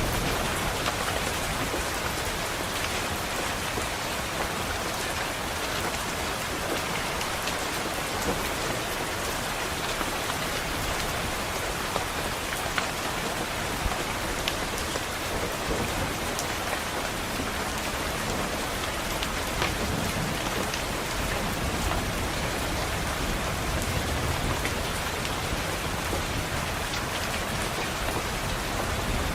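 Steady rain falling against a window pane, an even hiss with scattered sharp drop ticks.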